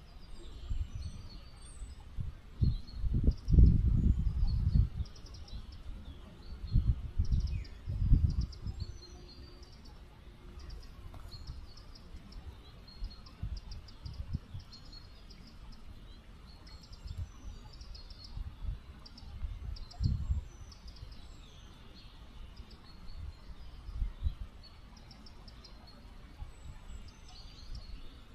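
Small birds chirping in short, repeated high notes over the faint steady flow of a small river. Uneven low rumbles cut in, loudest a few seconds in and again around eight seconds.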